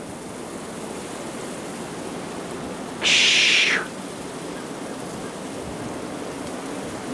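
Blizzard wind blowing steadily outdoors as a constant rushing noise, with a brief, louder high hiss about three seconds in.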